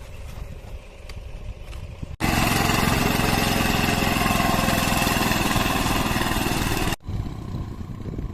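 An engine running with a low rumble. About two seconds in it cuts abruptly to a much louder, closer engine sound for nearly five seconds, then drops back to the quieter rumble.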